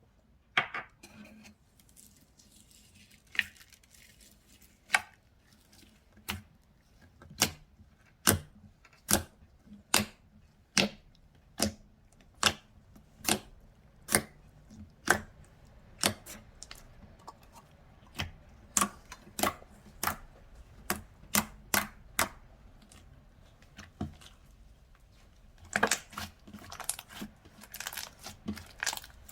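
Slime being pressed and played with by hand, giving sharp clicking pops about once a second, then a quicker run of crackling near the end.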